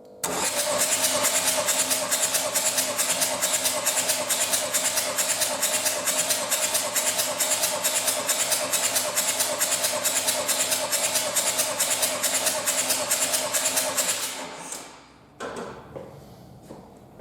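Renault Trafic 1.9 dCi (F9Q 760) four-cylinder diesel engine running on a test stand with a steady, evenly pulsing clatter. About fourteen seconds in it is shut off and winds down, followed by a single knock.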